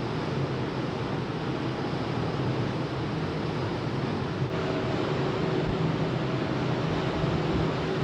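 Steady low drone of a large car ferry underway, heard aboard: a constant rumble with a low hum and a few faint steady tones.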